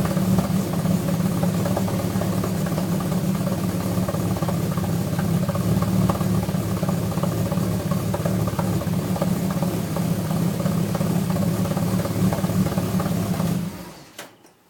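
Alfa Romeo V6 engine idling steadily as it warms up after winter storage, then falling silent about a second before the end.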